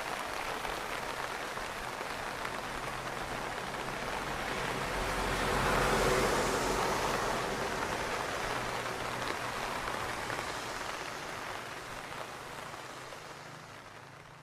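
Rain falling steadily, a dense hiss that swells about six seconds in and then fades away toward the end, with a faint low steady hum underneath.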